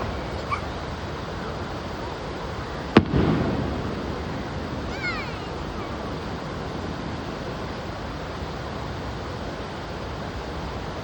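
Fireworks bursting: a sharp bang at the very start, then a louder bang about three seconds in that rumbles away, over a steady rushing background.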